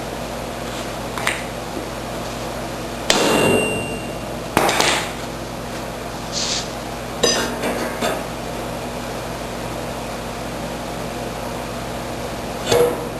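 Hammer blows on the metal parts of a John Deere 1032 snowblower: four separate strikes spread out with lighter knocks between them, the first of them ringing briefly. A steady hum runs underneath.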